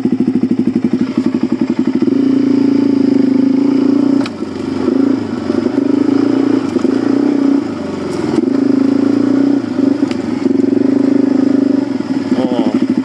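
Suzuki DR-Z400 dirt bike's single-cylinder four-stroke engine being ridden. It chugs at low revs at first, then holds steady higher revs with brief drops in throttle about four and eight seconds in, and settles back to a low chug near the end.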